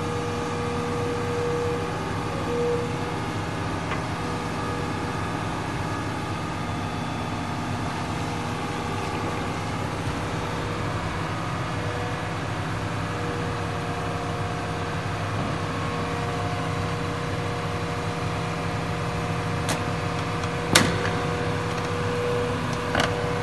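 Excavator's diesel engine running steadily with a humming tone. A single sharp knock near the end stands out above it, with a few fainter clicks around it.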